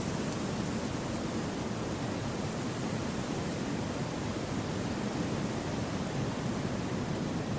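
Wind rushing through forest trees: a steady, even whoosh with no gusts or breaks.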